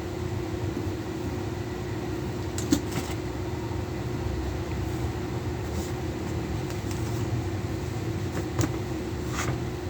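Steady mechanical background hum with a few sharp clicks; the loudest click comes about three seconds in, and two smaller ones come near the end.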